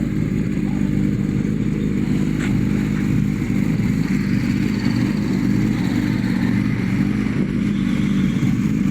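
Motorcycle engine running at a steady speed, with no revving.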